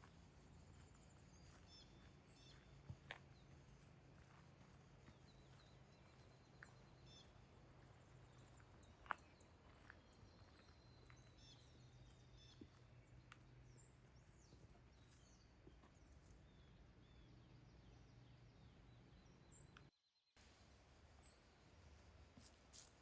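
Near silence: faint outdoor ambience with a low steady hum, a few faint bird chirps and occasional small clicks. The sound drops out abruptly for about half a second near the end.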